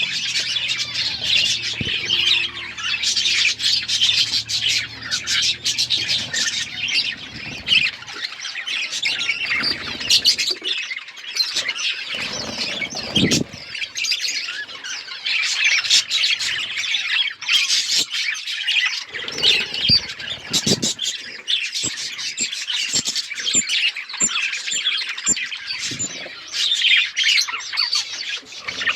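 A flock of budgerigars chirping and squawking all at once, a dense, unbroken chatter of many overlapping calls.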